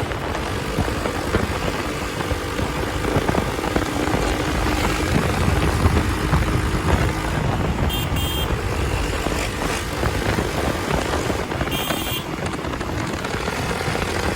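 Hero Xpulse 200's single-cylinder engine running through its new aftermarket exhaust while the bike is ridden. Two short high beeps sound about four seconds apart.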